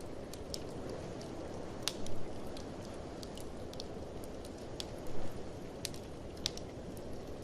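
Fireplace wood fire crackling, with irregular sharp snaps and a few louder pops, over a steady low rush of blizzard wind.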